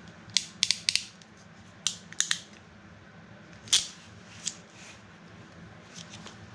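Sharp metallic clicks and snips of a hand tool working electrical wire: a quick run of four about half a second in, three more around two seconds, the loudest single one near the middle, and a few faint ones near the end.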